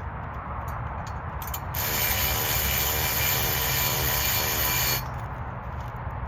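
A tool runs a small nut down onto a screw while the shooting bench is being assembled: a steady mechanical buzz of about three seconds that starts about two seconds in and cuts off suddenly.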